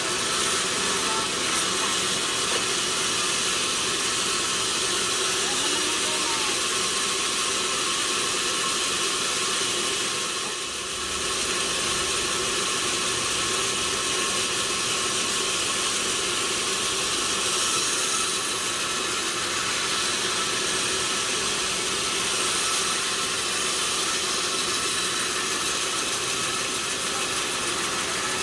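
Sawmill machinery running steadily, a constant even noise with a brief dip about eleven seconds in.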